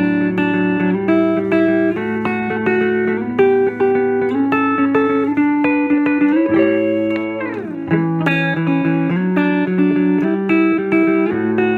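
Electric guitar fitted with a Humble Pickups 'Fat Bottom' humbucker, played clean through a Fender Vibrolux Reverb amp: picked chords and single notes, with a downward slide about seven seconds in.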